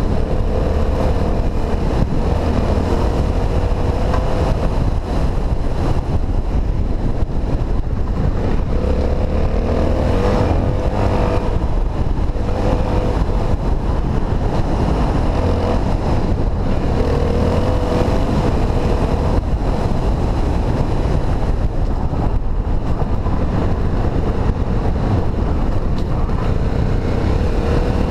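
Honda XR250 Tornado's single-cylinder four-stroke engine running under way, its revs rising and falling, with low wind rumble on the microphone.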